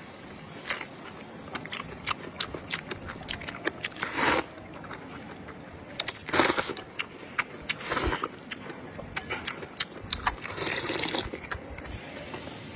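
A person eating spicy noodle soup with sheep's leg meat: mouth and chewing noises with several longer slurps, about 4, 6.5, 8 and 11 seconds in, among many small sharp clicks.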